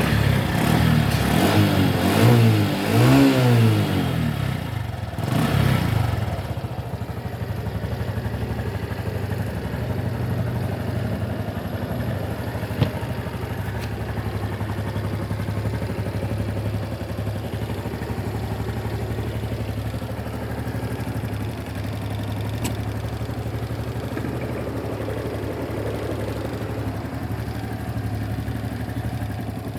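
Honda Super Cub 110's single-cylinder four-stroke engine revved a few times with rising and falling pitch, then settling into a steady idle. One sharp click about 13 seconds in.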